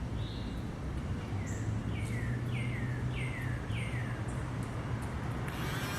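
A bird calling: a short rising note, then a run of four downslurred chirps about half a second apart, over a steady low hum. A broad rushing noise comes up near the end.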